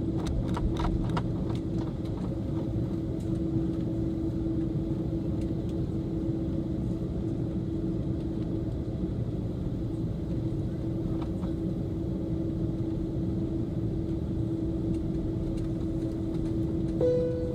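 Airbus A330 cabin noise on the ground before takeoff: a steady low rumble of idling jet engines and aircraft systems, with a steady hum. A few light clicks come about a second in.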